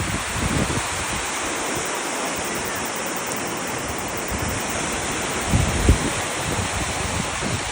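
Steady rushing outdoor noise, with two low thumps of wind buffeting the microphone about five and a half seconds in.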